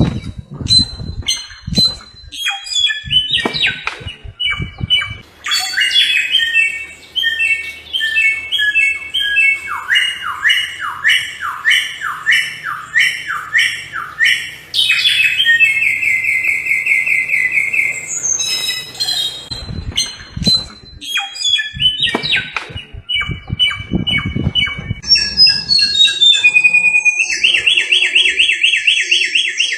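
Samyong bird singing a loud, varied song of sharp chirps, a long run of repeated falling whistled notes, and fast buzzy trills, with low thuds at times underneath.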